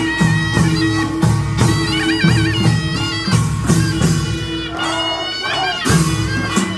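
Korean nongak farmers' band music: drums and gongs beat a steady rhythm, about two strokes a second, under a shrill double-reed melody, a taepyeongso, whose held notes waver and bend.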